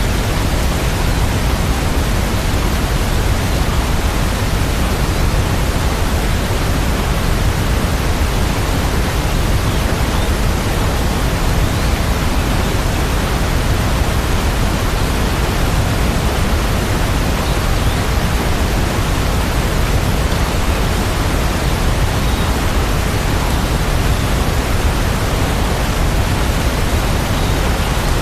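Steady rain sound: a dense, even hiss with no single drops or rhythm standing out, heaviest in the low range.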